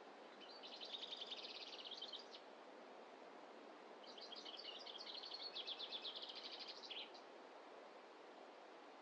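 A small songbird sings two fast, trilled phrases of rapid high notes, the second longer than the first, over a steady low rushing hiss.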